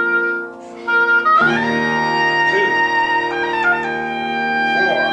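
Oboe playing a phrase of held notes. There is a short break under a second in, and the phrase picks up again about a second and a half in.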